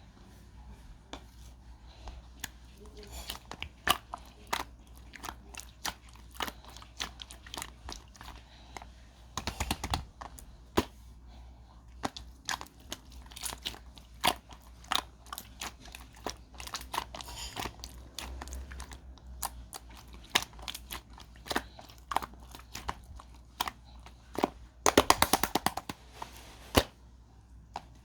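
Hands squeezing and pressing a crunchy, crinkly material, giving many small sharp crackles and clicks, with dense bursts about ten seconds in and again near the end.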